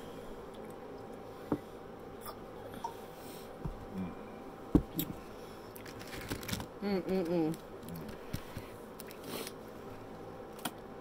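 Close-up eating sounds: chewing and mouth noises with a few sharp clicks, one louder near the middle. About seven seconds in, a short hummed vocal sound.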